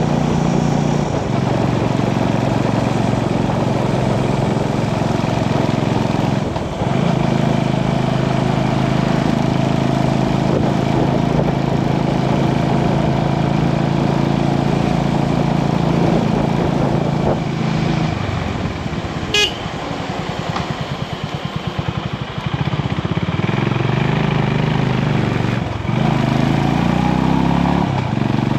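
Motorcycle engine running steadily on the move, with a brief dip after about six seconds. About two-thirds of the way in it drops to a lower, pulsing beat for a few seconds, then pulls up again. A short high beep sounds as the engine drops.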